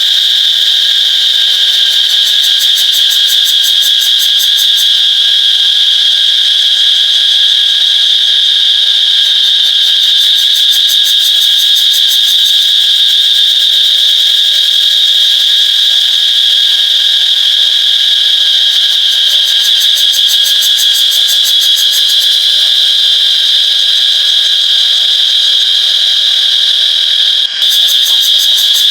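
Cicadas buzzing in a loud, steady, high-pitched drone, with a rapid pulsing rattle that swells in and fades out over it several times. The sound drops out for an instant near the end.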